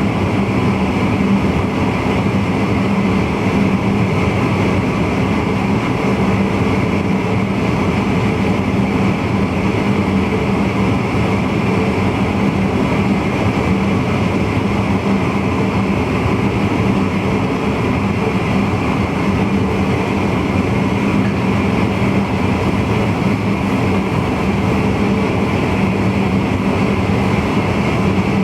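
NS VIRM double-deck electric intercity train running steadily at speed, heard from inside the driver's cab: a constant rumble of wheels on rail with a steady hum.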